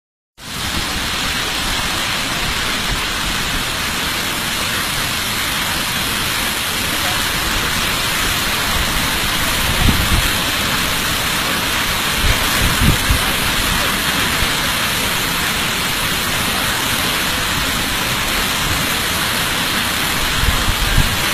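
Waterfall: a steady, dense rush of falling water, with a few brief low thumps about ten, thirteen and twenty-one seconds in.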